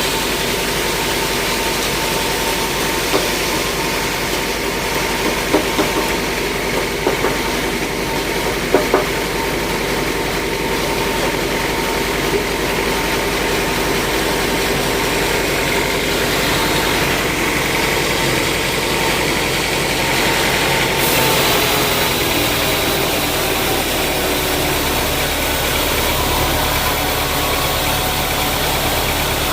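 Sawmill machinery engine running steadily, with a few sharp knocks between about three and nine seconds in. The pitch and character shift about two-thirds of the way through.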